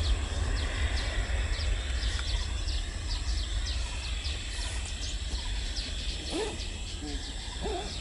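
Birds chirping: many short, high chirps several times a second over a steady low rumble.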